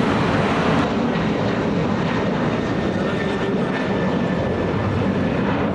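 Jet airliner's engines heard as a loud, steady noise with a faint high whine running through it.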